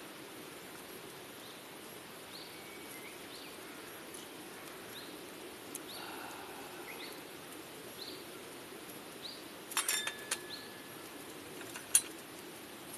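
Outdoor ambience: a steady low rushing hiss with a small bird chirping short high notes again and again, and a few sharp clinks about ten seconds in, with the loudest single clink near the end.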